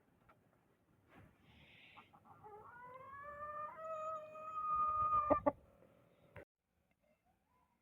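Aseel rooster crowing once: a single long crow that rises in pitch and then holds for about three seconds. A few sharp clicks follow near the end of the crow and shortly after.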